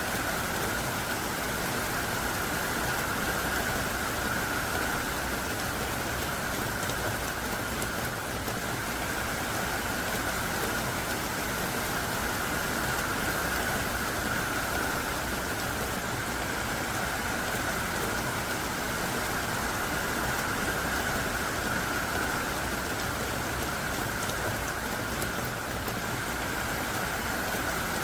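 Heavy, steady downpour of rain, falling thick and hard without let-up.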